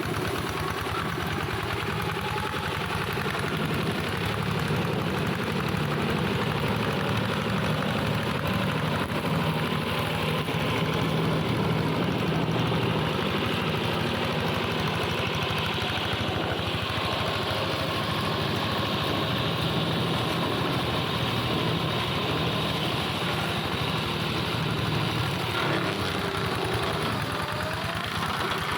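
Engine of a hand tractor converted into a brush mower, running steadily.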